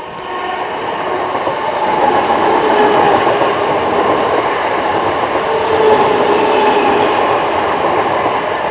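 Class 317 electric multiple unit passing close by at speed: a steady rush of wheels on rail that swells about two seconds in and eases off near the end.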